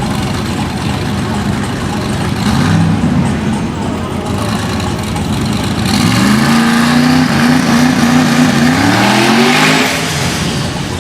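Drag-racing car engines at full throttle accelerating hard down the strip. In the second half the engine note climbs in steps through several upshifts for about four seconds, then fades.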